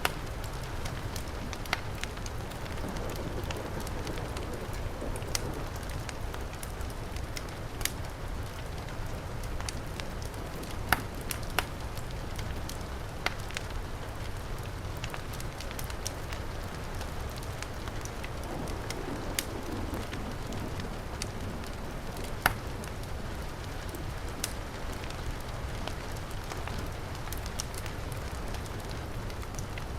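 Wood fire crackling, with irregular sharp pops, a couple of them louder, over the steady rush of heavy rain.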